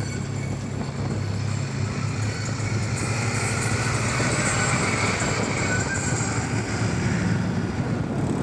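A vehicle engine running steadily under a haze of road and wind noise.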